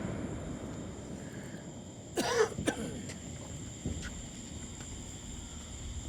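Night-time insect trill, a thin high tone that runs steadily throughout, with a brief human vocal sound, tagged as a cough, about two seconds in, and a few faint clicks.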